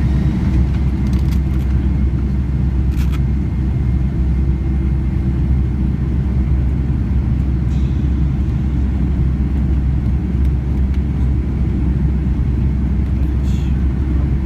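Steady low rumble of a Boeing 767-300's engines and airframe heard inside the passenger cabin, with a few faint clicks in the first few seconds.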